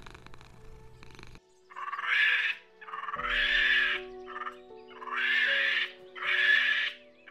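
Monkey calling: four loud, harsh calls, each just under a second long, with a short one between the second and third. Calm background music with held notes plays underneath.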